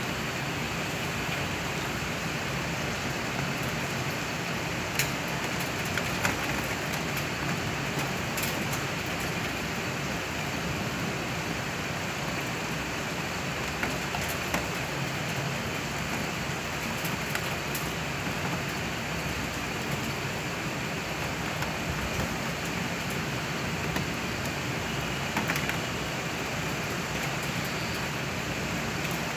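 Heavy rain falling steadily on a street and pavement, an even hiss of downpour, with now and then a sharp tick of a drop striking something close by.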